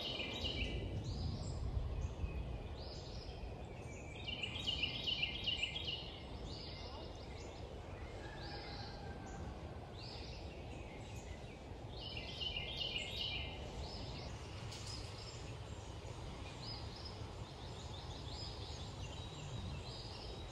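A bird singing outdoors in repeated high, rapid phrases of about two seconds each, several seconds apart, over a steady low background noise.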